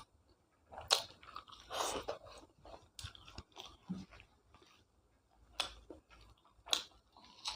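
A person chewing and biting food, with three sharp crunchy bites amid softer wet chewing.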